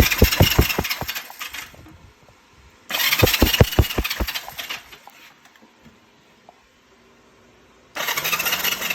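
Electric starter cranking a Honda CB360's parallel-twin engine in three bursts of about two seconds each, a high starter whine over a steady beat of compression strokes; the engine does not catch.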